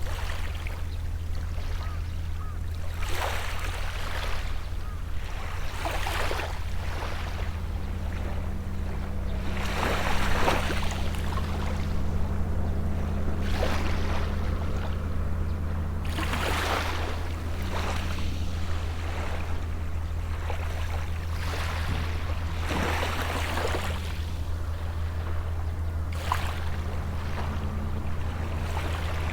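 Small waves breaking and washing up the shore every few seconds, over the steady low drone of a distant boat engine.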